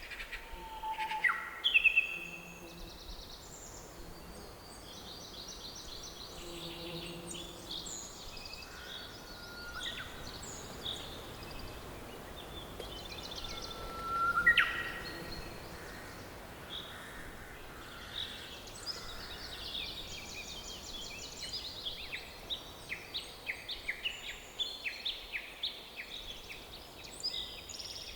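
Several songbirds calling and singing at once over a faint steady hiss. Two louder sweeping whistles stand out, one about two seconds in and one about halfway through. Near the end comes a quick run of short repeated notes.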